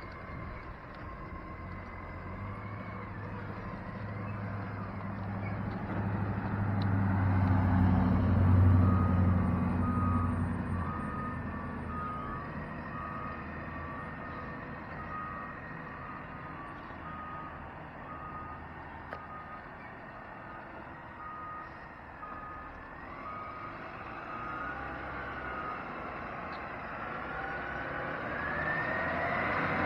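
Heavy truck's reversing alarm beeping steadily, while the truck's engine rumbles, swelling to its loudest about eight seconds in and then easing off.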